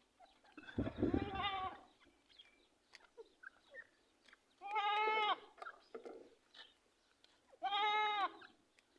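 An animal calling three times, each call under a second and bleat-like, with an arched pitch.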